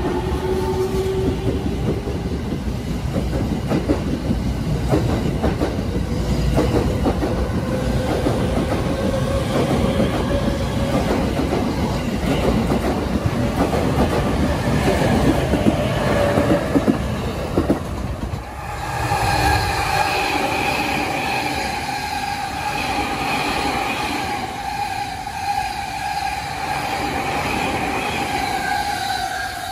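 JR E217 series electric commuter train running past a station platform: wheel and rail rumble with clatter and a motor whine slowly rising in pitch as it gathers speed. About 18 seconds in the sound changes abruptly to a steadier, higher motor whine over lighter running noise.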